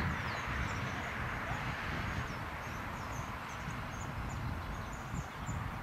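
Small birds chirping, many brief high calls over and over, above a steady outdoor rush with an uneven low rumble underneath.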